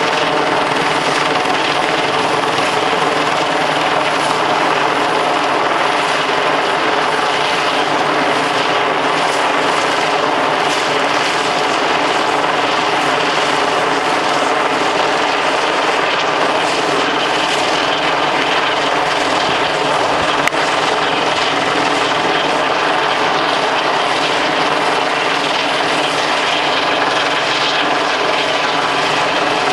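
Helicopter hovering low overhead: a steady drone of rotor and turbine engine that holds an even level throughout.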